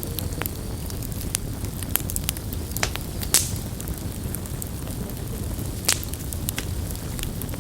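Wood campfire burning: irregular sharp crackles and pops over a steady low rumble, with two louder pops about three and a half and six seconds in.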